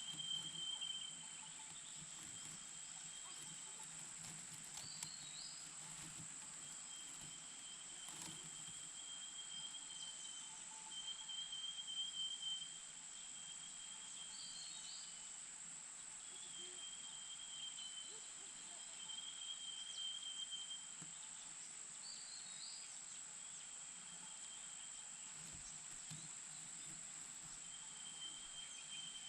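Insects trilling steadily in a high, unbroken drone, with a thinner high trill that starts and stops every few seconds. A short chirp sounds about every eight to nine seconds.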